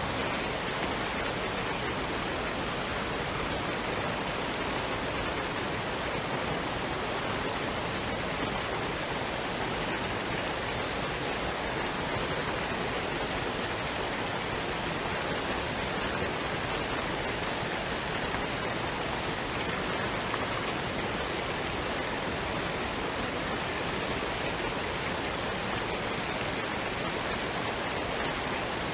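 Waterfall and stream water running, a steady even rush of falling water with no changes.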